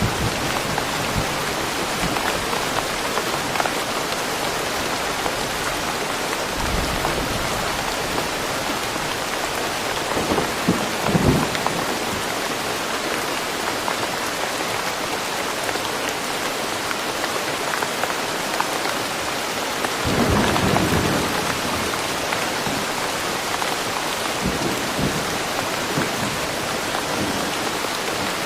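Steady rain falling, with thunder rumbling twice, about ten seconds in and again about twenty seconds in.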